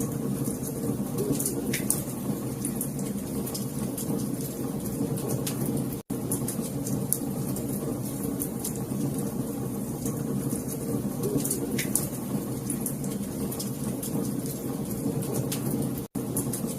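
Wood fire burning with a steady low rumble, scattered sharp crackles and pops. The sound cuts out for an instant twice, about six seconds in and near the end.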